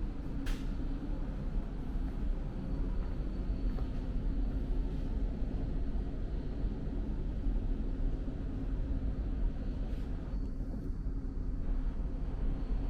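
Steady low rumble of a running vehicle, with a steady hum and a single sharp click about half a second in.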